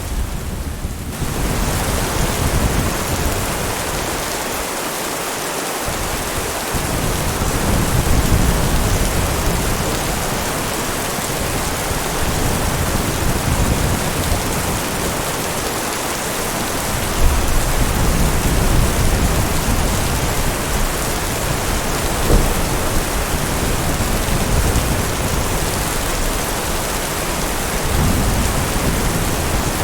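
Heavy rain falling steadily, with low rolling thunder that swells several times: about a quarter of the way in, just past the middle, and again near the end.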